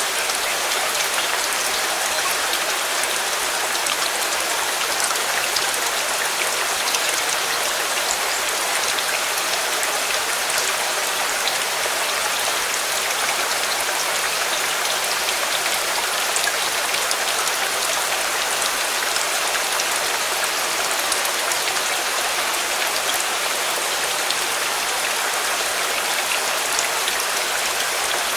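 Steady rain falling, an even hiss with many small scattered ticks of drops striking a surface.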